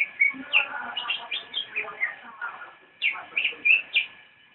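Songbird singing: rapid runs of short, varied chirps and whistled notes, easing off briefly a little past halfway and starting again in a quick burst about three seconds in.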